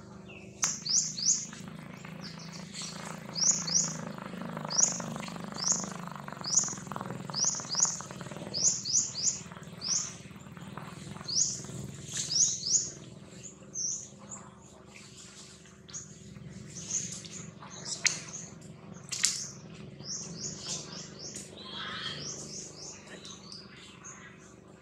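A bird chirping again and again: short, high, downward-sliding chirps, often in quick pairs.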